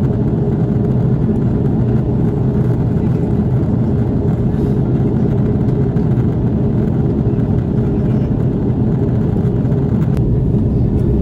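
Steady low rumble inside the cabin of an Airbus A330-300 airliner: engine and airflow noise heard from a passenger seat, with no change in level.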